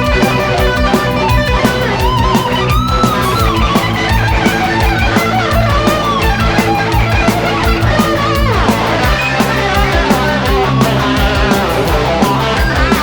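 Hard rock instrumental passage: a lead electric guitar plays bent notes over bass and a steady drum beat, with a long downward slide about eight and a half seconds in.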